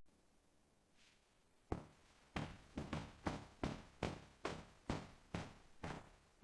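A series of sharp knocking hits, each fading quickly, starting after a short silence and repeating about twice a second.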